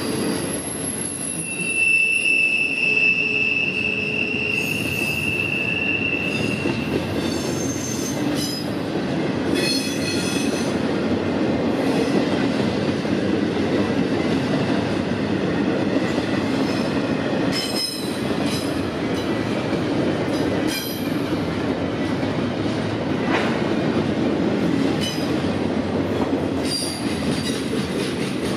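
Freight train cars rolling past, a steady rumble of steel wheels on rail. A long high-pitched wheel squeal sets in about two seconds in and lasts several seconds, with shorter squeals later on.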